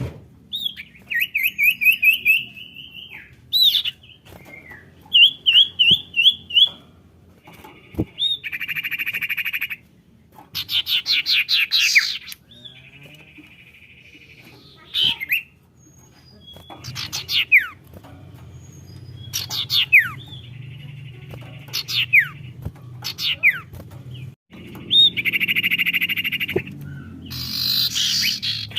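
Common iora (sirtu) calls played as a lure: repeated phrases of fast chirping trills, harsh buzzy chatter, and sharp whistles that fall steeply in pitch, with short pauses between phrases.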